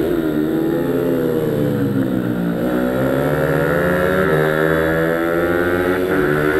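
Pit bike engine revving on a track, its pitch dropping and climbing several times as it slows and accelerates.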